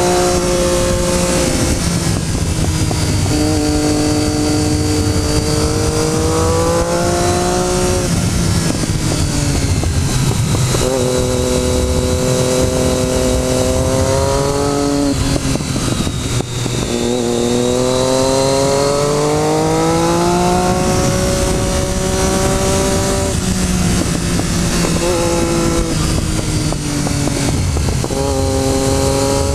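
Motorcycle engine pulling hard through the gears. Its pitch climbs, drops sharply at each gear change, and climbs again, about every four to five seconds, over a steady rush of wind.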